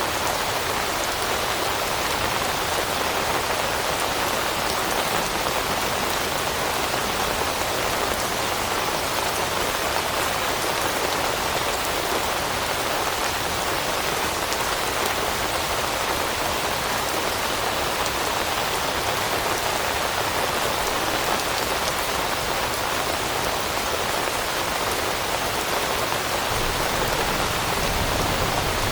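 Steady rain falling on leaves, an even, unbroken hiss of many raindrops with no lulls or gusts.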